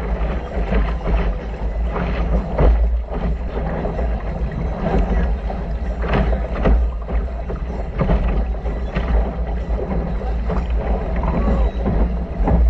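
Wind rumbling on the microphone of a sailboat under way, with irregular slaps and splashes of water against the hull.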